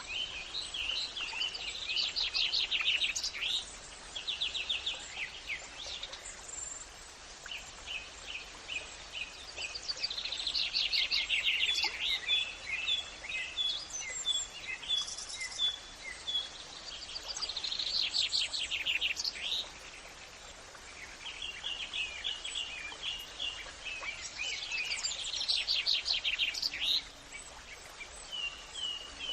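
Songbirds singing: a rapid trilled phrase about every six to seven seconds, with runs of short chirps between, over a steady background hiss.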